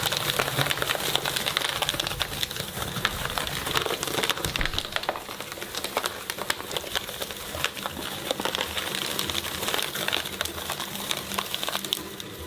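Shredder crunching through a brittle item: a dense, continuous run of crackling and cracking that eases off about twelve seconds in.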